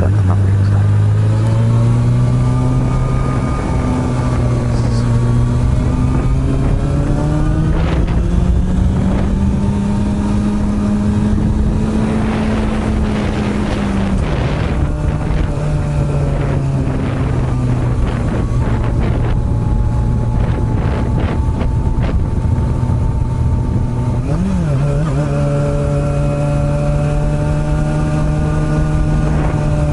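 Honda CB400 Super Bold'or (NC42) inline-four with an aftermarket r's gear muffler, ridden under way: the engine note climbs gradually through the first half, drops sharply about halfway through at a gear change, and then holds steady, with one more quick dip and recovery about five seconds before the end.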